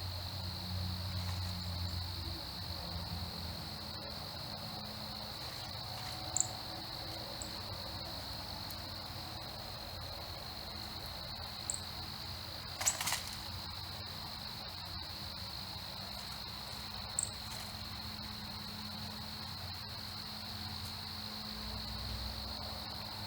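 Crickets trilling in a steady, unbroken high chorus, with a few brief high chirps and one sharp click about thirteen seconds in.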